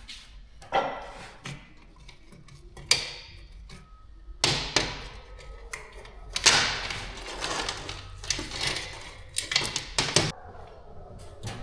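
Workshop clatter: a string of irregular metal knocks and clanks, some followed by scraping, as tools and parts are handled while the drive chain and rear wheel go back on a dirt bike.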